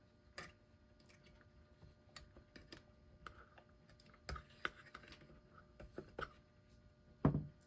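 Scattered small clicks and light taps of hand tools and small metal parts being handled on a clock as it is taken apart, with one louder knock near the end.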